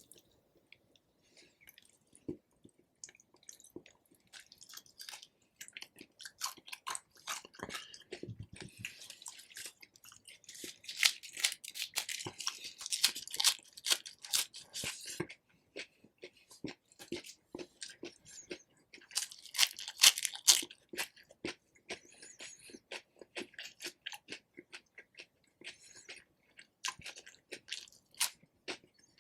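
Close-miked chewing and biting of rotisserie chicken: a run of wet mouth clicks and bites, with two louder, denser stretches, one about ten to fifteen seconds in and a shorter one about twenty seconds in.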